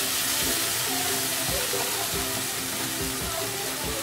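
Onion, green chilli and ginger-garlic paste sizzling with a splash of water in a wok while a wooden spatula stirs it, under background music. This is the masala being fried so the spices don't burn.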